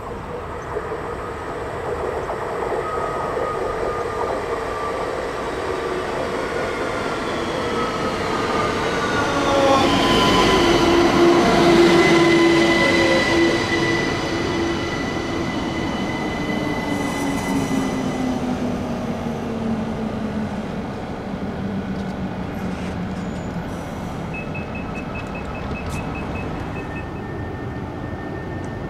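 A train passing, growing louder to a peak about ten to thirteen seconds in and then fading away. Whining tones drop in pitch as it goes by.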